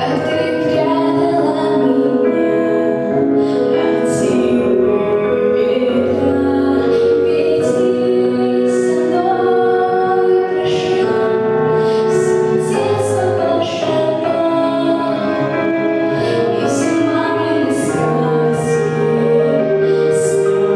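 A girl singing a song in held, melodic phrases over instrumental accompaniment.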